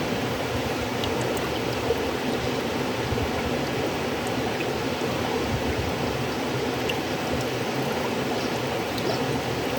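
River water flowing steadily: a continuous rushing with small splashes and droplet ticks.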